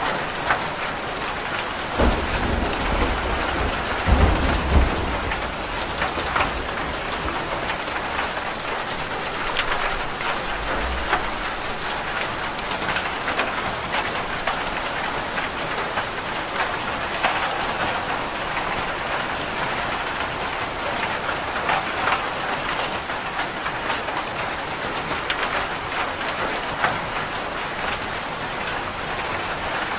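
Steady rain falling on a roof, with individual drops ticking. A low rumble of thunder comes in about two seconds in, swells strongest around four to five seconds in, and dies away by about eleven seconds in.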